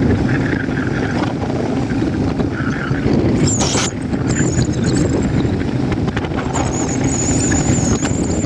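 Motorcycle riding along a road: steady engine and road noise with wind buffeting the microphone. A brief hiss comes about three and a half seconds in, and a thin high whine runs through the last couple of seconds.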